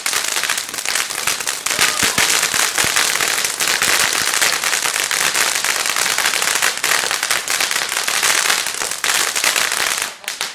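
Fireworks crackling: a dense, continuous run of rapid sharp cracks that stops abruptly about ten seconds in.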